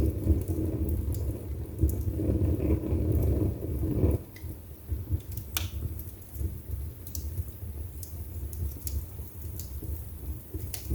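Wood fire burning in a fireplace, crackling with scattered sharp pops and snaps. A low rumble fills the first four seconds or so, then drops away, leaving the crackles over a quieter bed.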